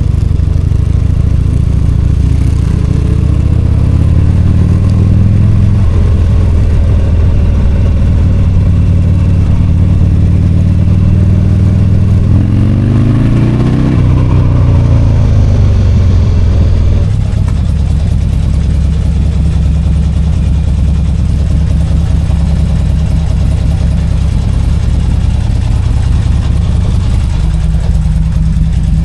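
V-twin motorcycle engine running on the move; about twelve seconds in it revs up sharply, then drops back and settles to a lower, steady run.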